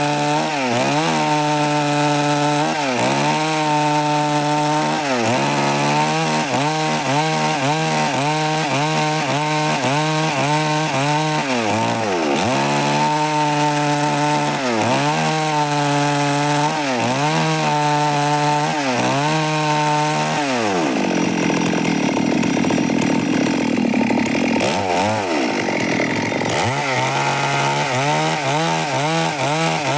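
Stihl MS 382 two-stroke chainsaw running at high revs while cutting wood, its pitch dipping briefly and recovering about every second. Past the middle, for about five seconds, the steady engine note breaks into a rougher, lower sound before returning to full speed.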